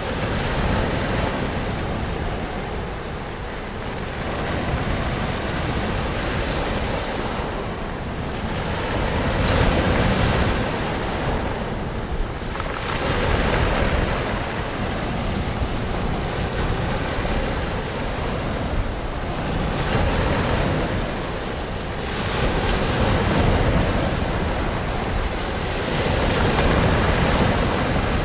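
Ocean surf: waves breaking and washing in, a continuous rushing that swells and eases every few seconds.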